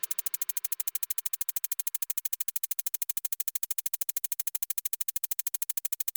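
A rapid, even train of sharp clicks, about a dozen a second, forming a steady buzz with no tune.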